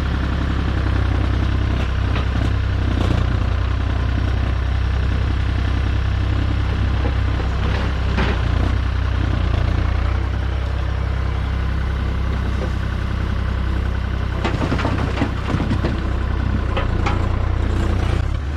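Heavy machine engine running steadily at low revs, with a few short knocks and clatters about halfway through and again near the end.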